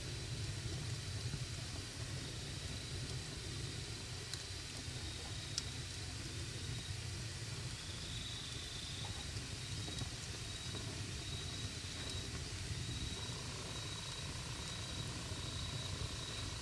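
Wood campfire burning: a steady low rumble and hiss, with a few sharp, sparse crackles, the loudest about halfway through. A faint thin high whine comes and goes.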